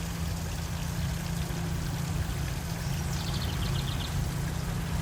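Steady rushing noise with a heavy low rumble, and a bird's short trill of quick high notes falling in pitch a little past three seconds in.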